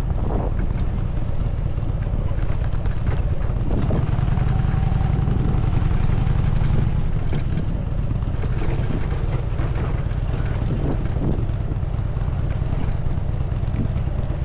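Harley-Davidson Dyna Super Glide's V-twin engine running steadily under way, a low, even rumble with a slight drop in loudness about seven seconds in.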